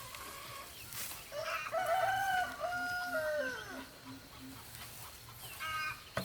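A rooster crowing once: a long call that holds its pitch, then falls away at the end. A short, higher call follows near the end.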